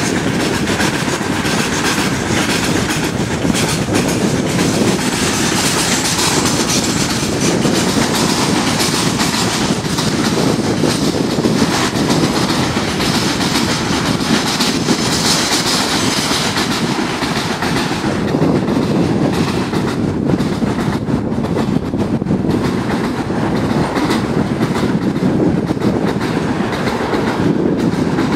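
Freight train of loaded coal gondola wagons rolling past, with a steady heavy rumble and the clickety-clack of wheels over rail joints.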